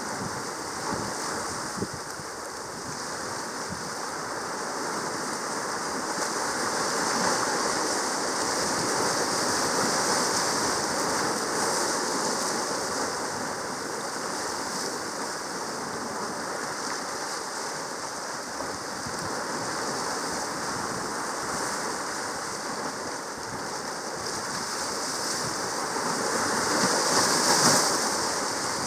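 Sea water noise: a steady rushing that swells and eases slowly, loudest near the end.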